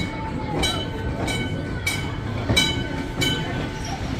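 A bell ringing in steady strokes, about three every two seconds, each stroke ringing on; the ringing stops about three seconds in.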